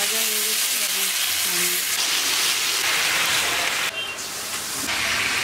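Turmeric-coated vegetable pieces sizzling as they fry in hot oil in a kadai, a steady hiss that dips briefly about four seconds in.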